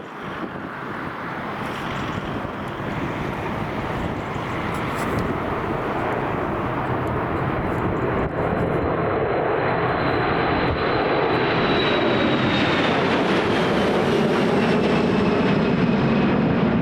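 Boeing 737-300 jet airliner's CFM56-3 engines growing steadily louder as the aircraft approaches, with a high engine whine that slides down in pitch over the second half as it passes.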